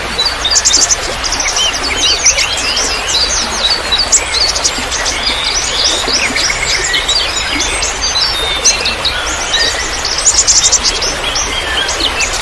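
Many small songbirds chirping and twittering at once in dense, overlapping calls, with a quick run of rapid notes near the end. Underneath is a steady trickle of running water.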